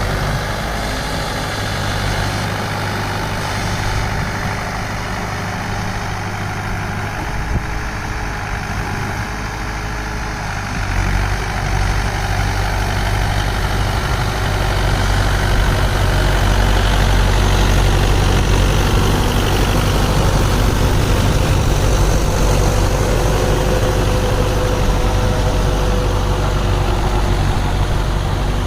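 Mahindra 595 Turbo tractor's diesel engine running steadily with a low hum. It grows louder about a third of the way in and then holds steady.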